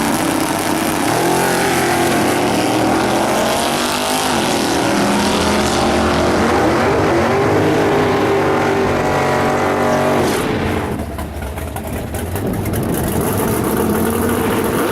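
Alcohol-fuelled, naturally aspirated small-block Chevy V8 in a race Camaro at full throttle, its pitch climbing through the gears with two shifts, then backing off about ten seconds in and dropping to a lower, quieter running.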